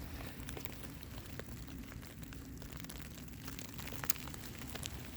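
Faint, scattered light ticks of snow pellets falling on an umbrella, with one sharper tick about four seconds in.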